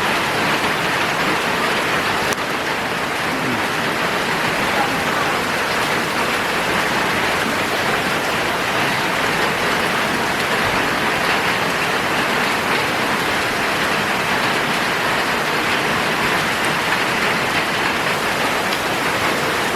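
Heavy rain pouring down, a steady, even wash of noise with no let-up.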